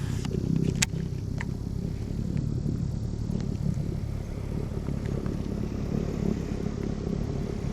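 Motorboat engine running steadily close by, a low drone with a steady hum. A couple of sharp clicks stand out in the first second and a half.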